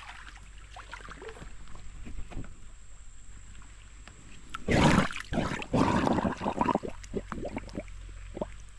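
Water splashing and sloshing around a kayak, with small knocks and clicks. The loudest splashing comes about five seconds in, followed by more irregular splashes for a couple of seconds.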